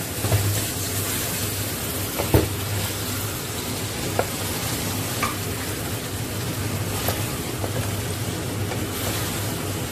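Raw chicken pieces sizzling in oily masala in an aluminium pan while a wooden spatula stirs them, with a few sharp knocks of the spatula against the pan, the loudest about two and a half seconds in.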